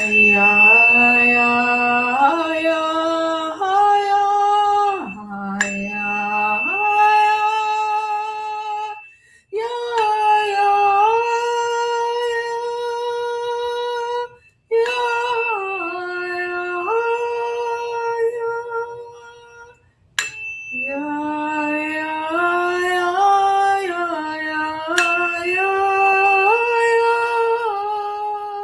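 A woman's voice chanting the heart vowel 'Ya' in long held notes that step up and down in pitch, in about five phrases with short breaks between them. Behind the voice a struck tuning fork rings a high steady tone, and it sounds again with each phrase.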